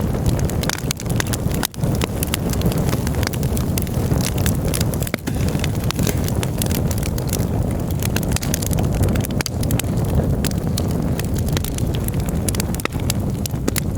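Campfire crackling, with many irregular small snaps and pops over a steady low rumble that sounds like wind on the microphone. The sound drops out for a moment about two seconds in.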